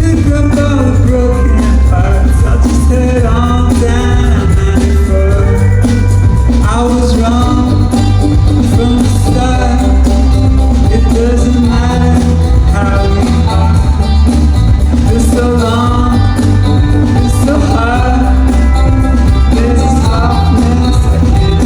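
Live band performing a song with a lead vocal over guitar, bass and drums, the bass heavy.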